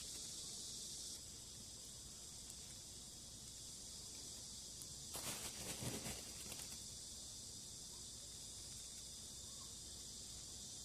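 Steady, faint high-pitched insect chorus, with a short burst of handling noise about halfway through.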